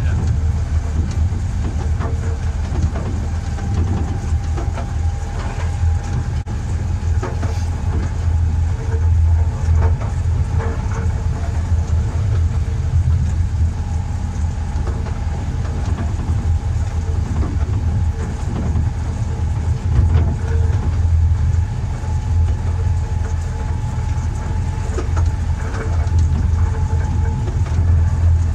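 Miniature railway train running along 12-inch gauge track: a steady low drone from the locomotive and running gear, with a few sharp clicks from the wheels on the rails.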